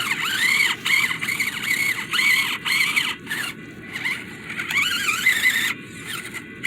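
Whine of a 1/24-scale Enduro24 Sendero RC crawler's small electric motor and gearbox as it crawls over rocks, its pitch rising and falling in short spurts as the throttle is worked, with brief pauses.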